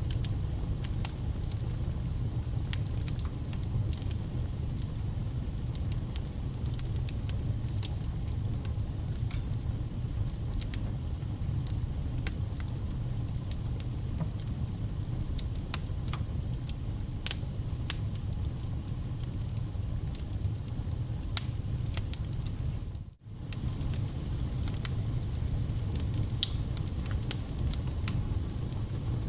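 Wood fire burning, with many irregular crackles and pops over a steady low rumble. It drops out for a split second about three-quarters of the way through.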